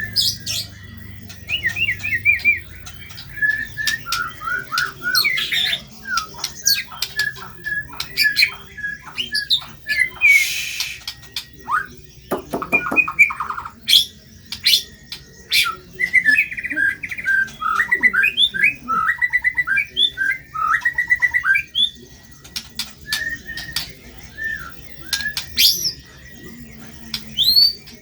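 White-rumped shama (murai batu) singing a fast, varied song: rapid chirps and short trills mixed with sharp upslurred whistles and a few harsh, rasping notes, including a buzzy rattle about twelve seconds in.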